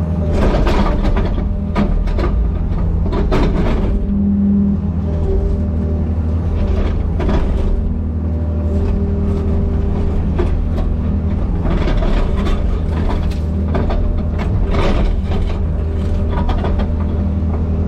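Excavator's diesel engine running steadily under work, with irregular crackling and knocking sounds on top.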